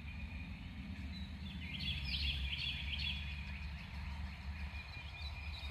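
A bird's quick warbling call about two seconds in, over a steady low rumble.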